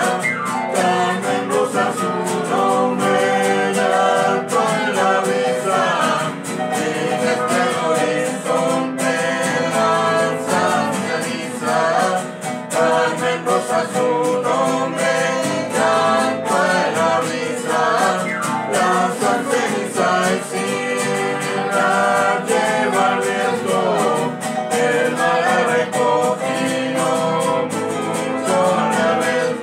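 Voices singing a cueca, a Chilean folk song, over strummed acoustic guitar in a steady beat.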